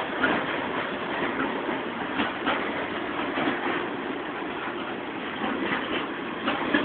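Freight train boxcars rolling past at close range: a steady rumble of steel wheels on the rails, broken by frequent irregular clanks and clicks.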